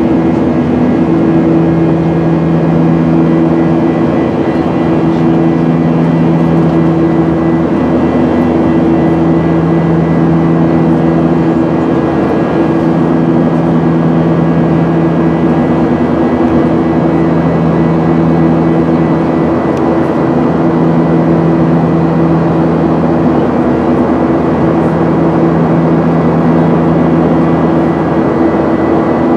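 Cabin noise of a Boeing 737-900ER airliner, its CFM56-7B jet engines running: a loud, steady rush with a constant low hum of several tones that swell and fade slightly.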